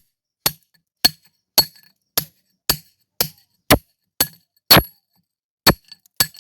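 Hammer blows on a steel tool driven into stone, working rock by hand in a quarry: sharp metallic strikes about twice a second, each with a short ring, with a brief pause about five seconds in.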